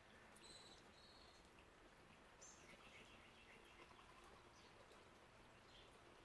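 Faint, scattered calls of small garden birds: a couple of short high chirps about half a second in, a quick chirp and a brief trill around the middle, and one short note near the end, over the low steady hiss of a bird bath fountain's flowing water.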